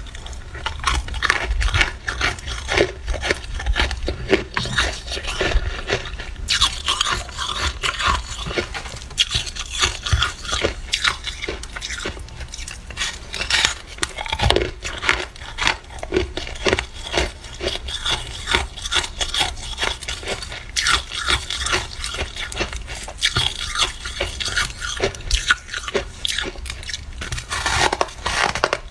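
Freezer frost being bitten and chewed, a dense run of irregular crunches several times a second.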